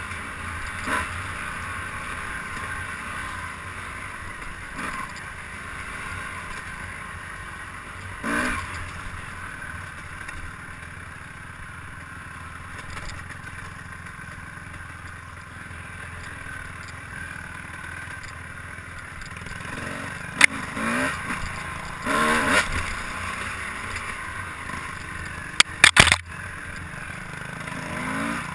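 A vehicle running steadily on a ride, with several sharp knocks and rattles, the loudest in the last third.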